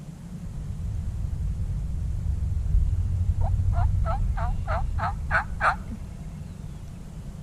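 Turkey yelping: a run of about eight quick yelps, roughly three a second, getting louder toward the end, over a steady low rumble.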